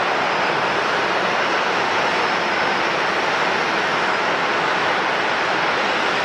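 Steady roar of jet airliner engines, an even rushing noise that holds constant throughout.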